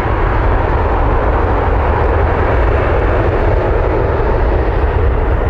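Boeing 777-200ER's twin Rolls-Royce Trent turbofans running at takeoff thrust: a loud, steady jet roar with a deep rumble underneath.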